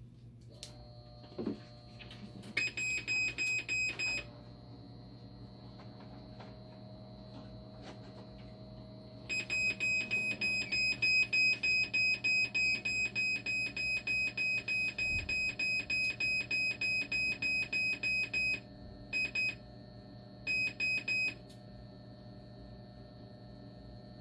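Hemodialysis machine alarm beeping rapidly in repeated runs, about four to five high-pitched beeps a second, one long run of about nine seconds in the middle and shorter bursts near the end, over a steady high whine and a low hum. The machine is in alarm with a trial power logic board fitted, which the technician reads as a conductivity offset.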